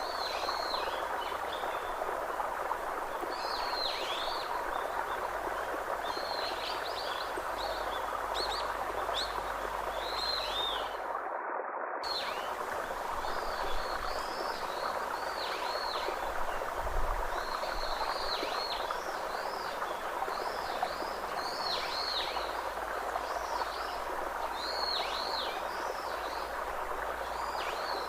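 Birds chirping in many short, downward-sweeping calls over a steady rushing background noise. The sound cuts out for about half a second around a third of the way through.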